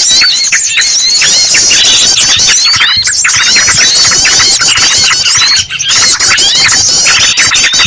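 A bird-lure recording: a dense, loud, unbroken chorus of overlapping chirps and squeals from many small birds. The noisy chatter of yellow-vented bulbuls is mixed with the distressed squealing of a trapped bird.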